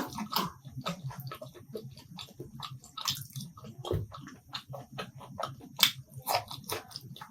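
A person chewing food close to the microphone: wet, sticky mouth clicks and lip smacks, several a second, in an uneven rhythm.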